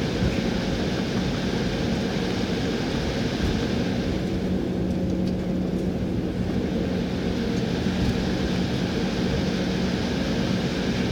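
Cabin noise inside an Embraer 190 airliner: a steady rumble from its jet engines and the airflow, with a low hum. The higher hiss eases a little about four seconds in.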